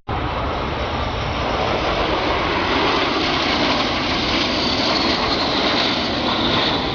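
Military jet aircraft roaring past an airshow crowd, a loud steady rush with a high engine whine growing stronger in the second half.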